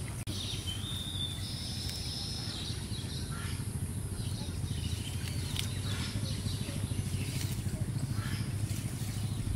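Birds calling, with clear whistled notes in the first couple of seconds and scattered short chirps after, over a steady low rumble.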